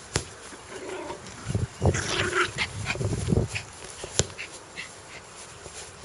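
Dog growling in a run of rough, low pulses through the middle seconds, with a couple of sharp clicks before and after.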